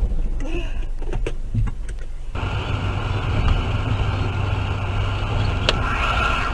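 Car running: steady engine hum and road noise, with a few knocks early and an abrupt change to a fuller, steady hum about two seconds in.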